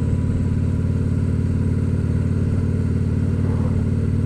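Motorcycle engine running steadily at an even cruising speed, its note holding level.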